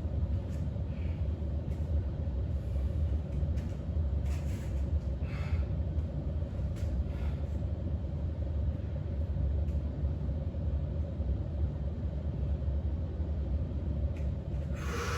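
Steady low rumble with a constant hum, like a running machine, and a few faint brief sounds over it.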